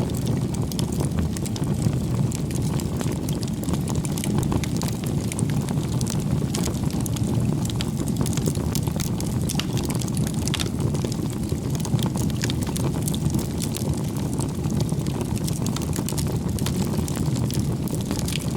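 Wood campfire burning, a steady low rumble of flames with many small crackles and pops from the burning logs.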